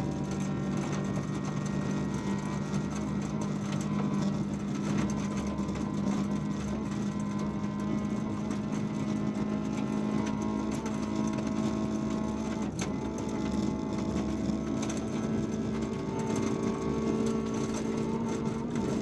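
VW Polo 1.4 16V rally car's four-cylinder engine running hard at high, fairly steady revs, heard from inside the stripped cabin, over tyre and gravel noise with scattered rattles and ticks. There is one sharp knock about thirteen seconds in.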